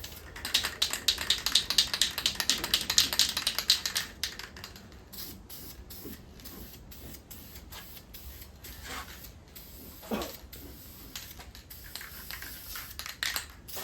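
Aerosol spray-paint can hissing in rapid pulses for about three and a half seconds, then stopping. Scattered light clicks and taps follow.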